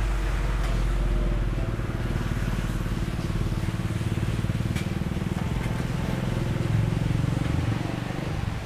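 A motorcycle engine running steadily, getting a little louder about seven seconds in.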